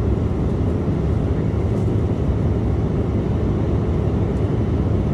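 Steady cabin noise inside an Embraer E175 airliner in flight: a low, even drone from its twin turbofan engines and the air rushing past the fuselage.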